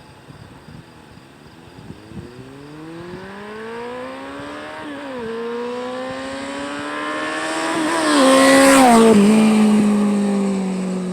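Kawasaki Concours GTR1400 inline-four through an unbaffled Blueflame EVO3 exhaust, accelerating hard toward the listener. It shifts up about five seconds in, climbs again and is loudest as it goes by, then drops in pitch and fades as it moves off.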